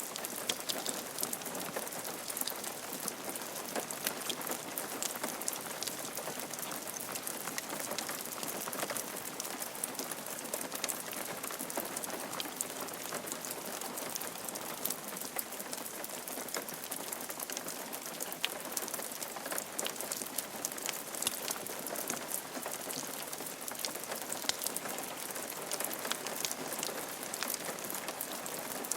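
Steady rain falling on a roof, a dense even patter of many individual drops ticking over the hiss of the rain.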